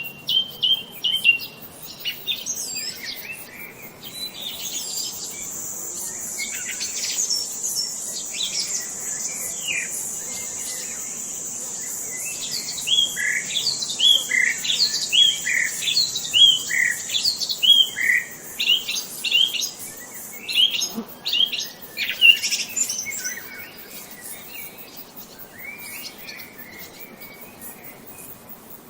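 Several birds chirping and calling in quick short notes, with a steady high-pitched buzz running through the middle stretch. About halfway through, the chirps come as a rapid repeated series of about two notes a second.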